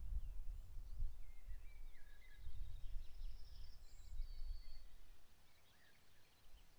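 Several songbirds singing faintly in a mix of short chirps, trills and thin whistled notes, one high whistle held for most of a second about four seconds in. Gusty wind rumbles on the microphone underneath and is the loudest sound, easing off near the end.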